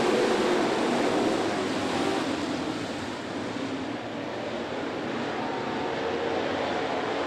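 A field of dirt late model race cars running hard after a restart, their V8 engines blending into one dense racing drone. The sound fades somewhat over the first few seconds as the pack moves off, then holds steady.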